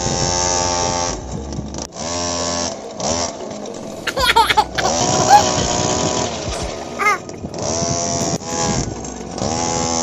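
A homemade mini tractor's small motor running with a steady whine, cutting out and starting again several times, with a brief high-pitched voice about four seconds in and again about seven seconds in.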